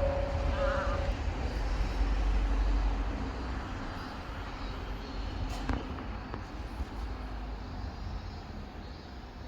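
Diesel railcar's engine rumbling under power as the train gets moving, then easing off after about three seconds. A steady beep stops about a second in.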